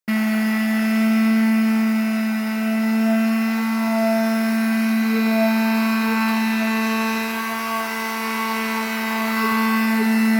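An electric power tool's motor running at a steady speed: a constant, even hum-whine that starts abruptly and holds the same pitch throughout.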